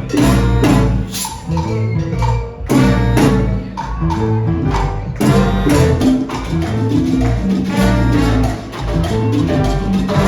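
Salsa band playing live: Latin percussion keeps a steady beat under pitched instruments.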